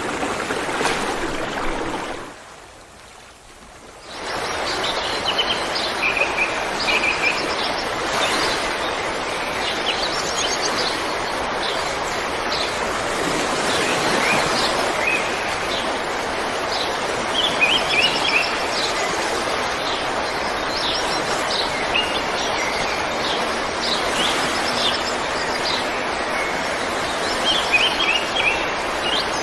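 River water running steadily, with small birds chirping in short repeated series over it. The water sound drops away for a moment about two seconds in, then comes back.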